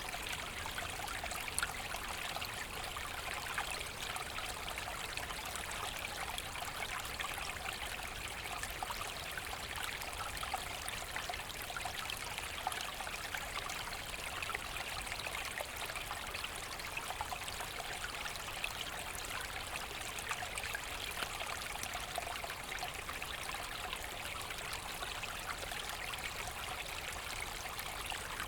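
A forest brook babbling and trickling over stones: a steady rush of running water flecked with small splashes and drips.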